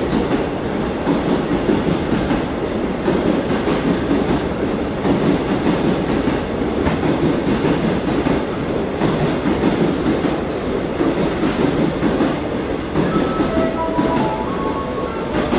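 Container wagons of a freight train rolling past at speed: a steady, loud rumble with the wheels clacking over rail joints. A few short high tones sound faintly near the end.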